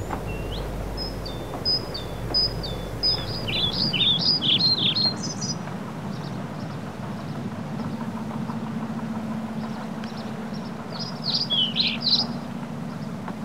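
A songbird chirping outdoors: a string of short, high notes that come faster for a few seconds, then another short run near the end. Under it is a steady background noise, and a low steady hum sets in about halfway through.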